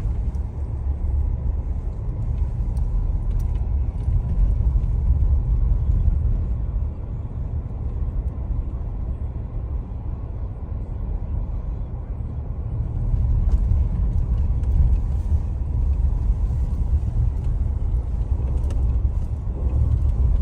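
Car driving, heard from inside the cabin: a steady low rumble of engine and road noise that swells louder twice.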